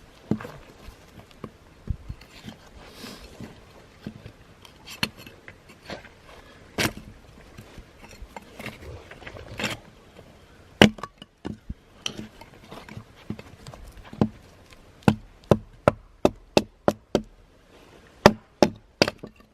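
Wood being chopped: sharp, separate strikes of a blade into wood, scattered at first, then a quick run of about three strikes a second near the end.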